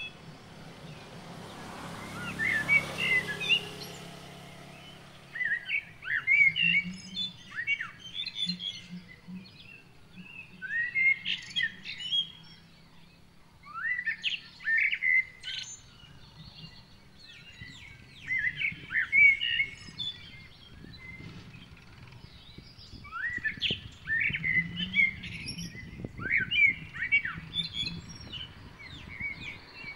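Birds chirping in repeated bursts of short, sweeping high notes. A broad rushing noise swells and fades in the first few seconds.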